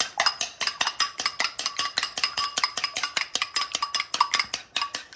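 A metal utensil beating a raw egg in a bowl: rapid, even clicks against the bowl's side, about seven a second, each with a short ring.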